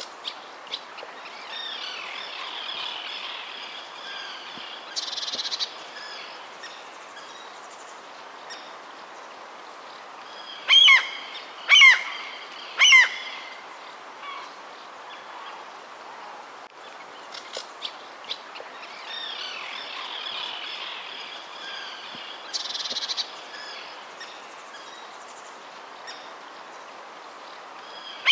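Wild birds chirping and singing over a steady outdoor hiss, with three loud calls about a second apart near the middle; the same stretch of song comes round again later.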